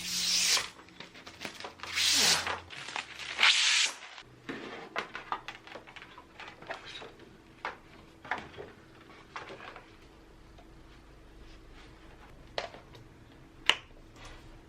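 Packaging around a poster frame being handled: three loud rustling, tearing swishes in the first four seconds, then scattered light clicks and taps as the frame is handled.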